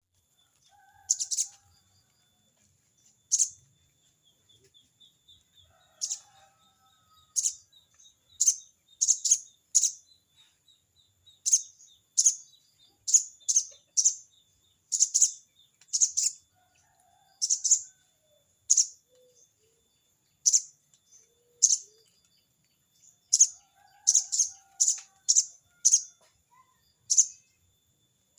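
Sogon bird giving its sharp 'crecet cerecet' chatter: short, high chips repeated irregularly every second or so, sometimes in quick pairs, as it calls a rival. A faint steady high tone runs beneath.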